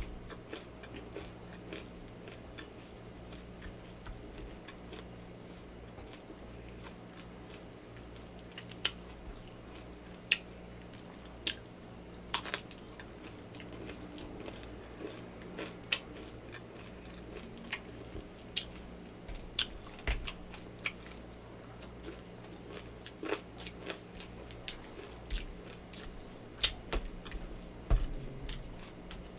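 Close-up eating sounds of a bowl of yakamein noodle soup: chewing with scattered wet mouth clicks and smacks, one louder about twelve seconds in, over a faint steady low hum.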